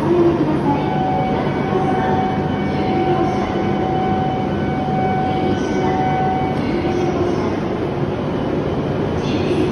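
E7 series Shinkansen standing at the platform, its equipment humming steadily with a held high tone that stops about two-thirds of the way through. Its doors are closing for departure.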